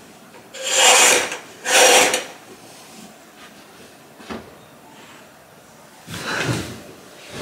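Floor-length curtains drawn shut along their rail in two quick sliding pulls, each a rasping swish of about half a second. A single small click comes a little past the middle, and a softer rustle of bedding near the end as someone leans onto the bed.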